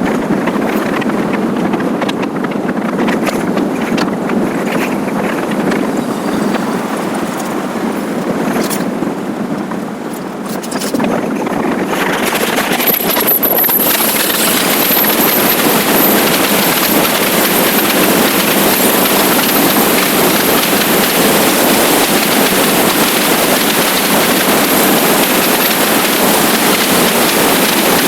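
Wind rushing over the microphone of a moving motorcycle, with road and engine noise underneath. It grows louder and brighter about twelve seconds in, as the bike picks up speed. A thin, steady high whine joins it soon after.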